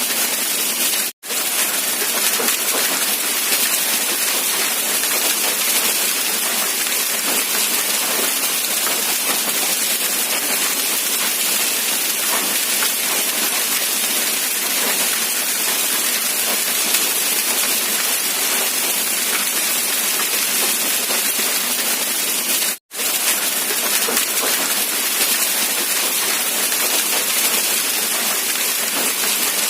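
Steady rain hissing evenly, with the low end cut away. It drops out to silence for a split second twice, once about a second in and again about three-quarters of the way through.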